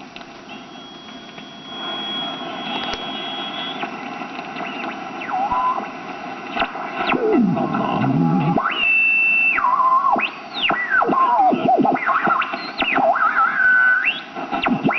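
Vintage Rogers tube radio being tuned across the dial: static hiss with squealing whistles that sweep up and down in pitch and sometimes hold a steady tone, getting louder about two seconds in.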